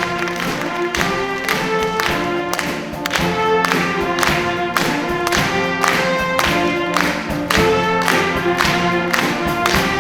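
A school wind band playing a piece, with held brass and woodwind notes over a steady percussion beat.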